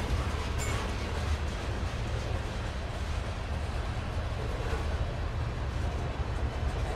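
Norfolk Southern freight train rolling past with a steady low rumble.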